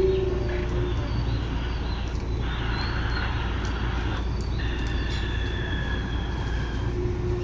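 Tobu 9000-series electric train standing still with a steady low hum from its equipment. High, bird-like chirps are heard over it, and a held mid-pitched tone fades out about a second in.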